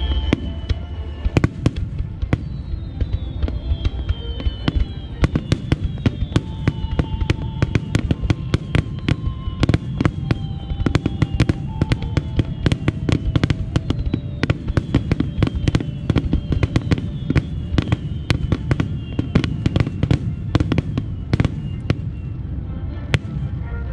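Starmine fireworks barrage: a dense, rapid run of shells bursting with bangs and crackles, and several whistling shells whose whistles slide down in pitch.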